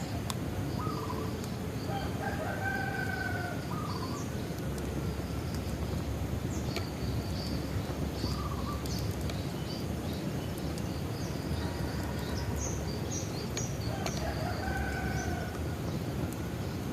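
Bonfire burning with a steady low rush and a few sharp crackling pops. A rooster crows twice, about two seconds in and again near the end, while small birds chirp throughout.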